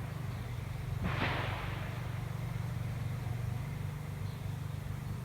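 Swarm of honey bees buzzing in flight around a swarm trap as they move in, a steady low hum, with a brief rush of noise about a second in.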